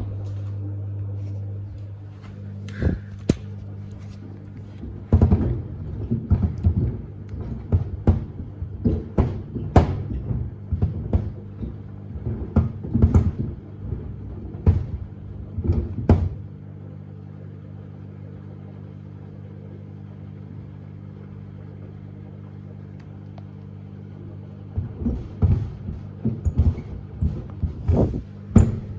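Samsung front-loading washer-dryer washing two pairs of sneakers: the shoes thump irregularly against the turning drum over a steady machine hum. The thumping stops for several seconds in the middle, leaving only the hum, and starts again near the end.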